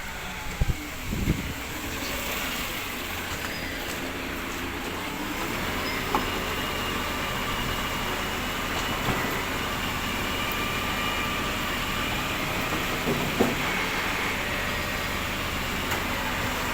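Rubbish collection truck running steadily, with a faint high whine over its drone and a few short knocks.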